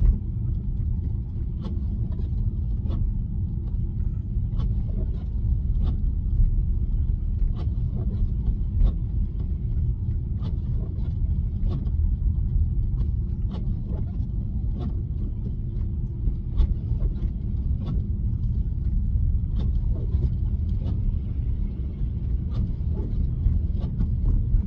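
Steady low rumble of tyre and road noise in the cabin of an electric Tesla driving on a snowy road, with faint irregular ticks about once or twice a second.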